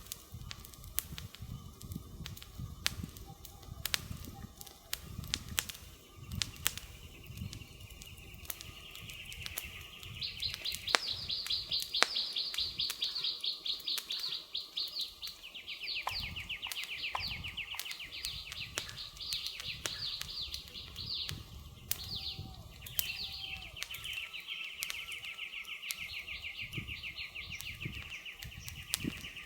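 Wood fire crackling and popping in sharp snaps over a low rumble of the flames. About a third of the way in, a rapid, high-pitched pulsing trill joins and carries on in long runs, changing pitch a few times.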